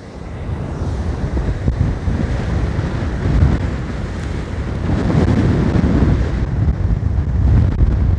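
Strong gusty wind buffeting the microphone in heavy low rumbles that surge and ease, over storm waves breaking on the shore.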